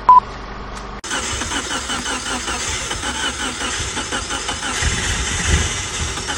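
A short beep, then about a second in the Mitsubishi 4G32 four-cylinder petrol engine starts up and runs with an even, rapid pulsing, briefly louder and deeper about five seconds in. This is the engine's first start in decades, after its carburettors were cleaned and new spark plugs and a new fuel pump were fitted.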